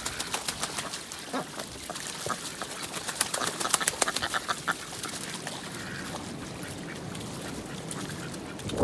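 Ducks quacking now and then, mixed with many quick faint clicks and ticks.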